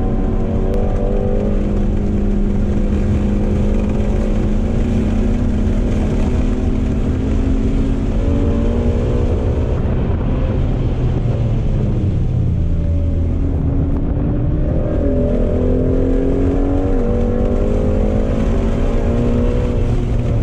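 Ford Mustang Shelby GT350R's 5.2-litre flat-plane-crank V8 heard from inside the cabin under hard track driving. The engine note climbs steadily and drops back at gear changes, about eight seconds in and twice more near the end, over steady tyre and wind roar.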